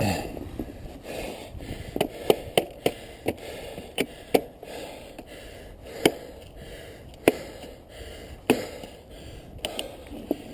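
Irregular sharp knocks and clicks of a cycling shoe striking a clipless pedal, with ice packed into the cleat: a quick run of knocks, then single ones a second or more apart, over a steady hiss.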